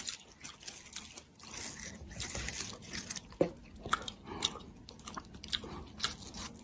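Quiet crunchy chewing, with irregular small crunches and clicks.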